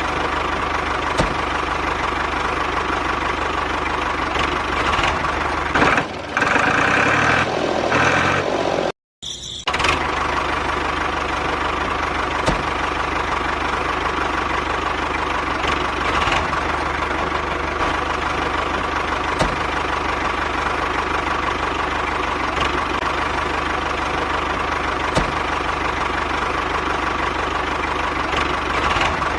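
Small electric motor of a homemade model tractor running steadily with a whining hum. It changes for a few seconds and cuts out briefly about nine seconds in, then runs on the same as before.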